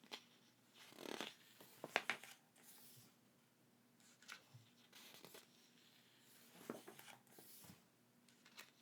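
Quiet handling of unboxed merchandise and its packaging: scattered short rustles, taps and clicks, the sharpest about two seconds in.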